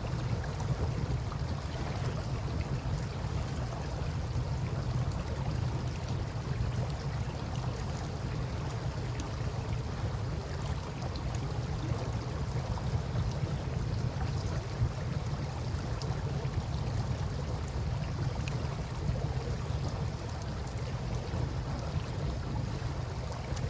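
Wood campfire crackling with scattered small pops over the steady wash of river water.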